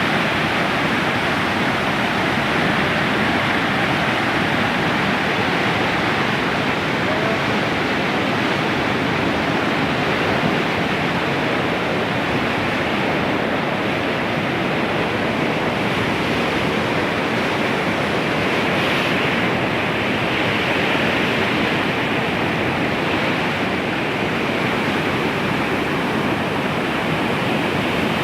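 Steady rush of a river in flood, swollen by heavy rain, its fast water churning without a break.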